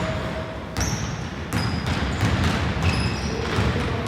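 Basketball being dribbled on an indoor court, one bounce about every 0.7 seconds, with short high squeaks among the bounces.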